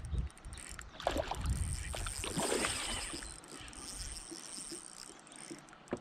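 Water splashing and knocking around a kayak as a hooked smallmouth bass is played close alongside, busiest in the first few seconds, over a steady high-pitched insect buzz.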